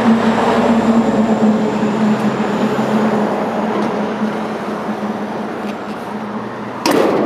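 Chevrolet 402 V8 idling steadily. Near the end a single sharp thump, the hood being shut.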